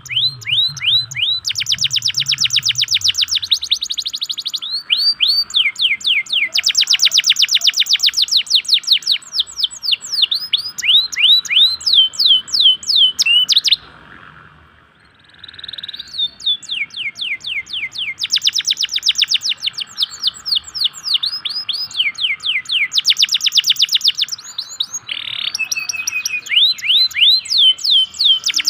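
Local domestic canary singing long trills of rapid downward-sweeping whistled notes, about ten a second, phrase after phrase. There is a short break about halfway through.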